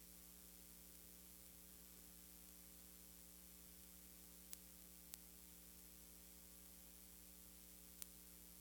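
Near silence: a steady electrical hum and hiss, with three brief faint clicks, two close together near the middle and one near the end.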